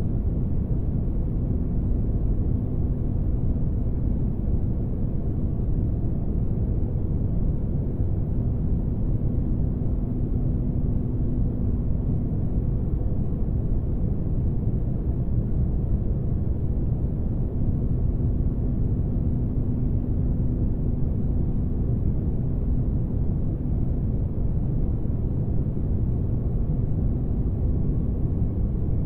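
Spaceship ambience noise: a steady, deep rumbling drone with no events in it. A faint hum sits on top for two long stretches and drops out between them.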